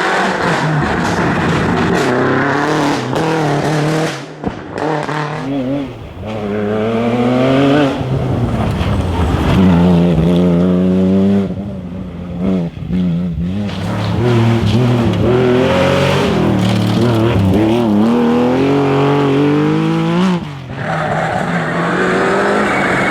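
Rally car engine revved hard through the gears on a special stage, its pitch climbing repeatedly with short dips at the gear changes and lifts.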